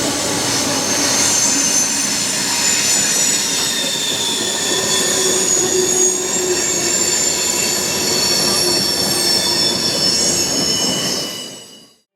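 Train rolling past on the rails, its wheels squealing with several steady high-pitched tones over the rumble of the cars. The sound fades out near the end.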